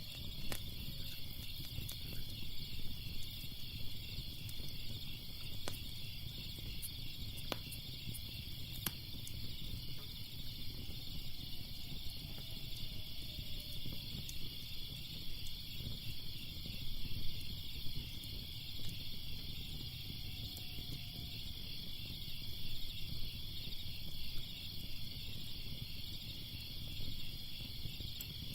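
A steady, pulsing chorus of crickets over a low crackling fire, with scattered sharp pops from the burning wood.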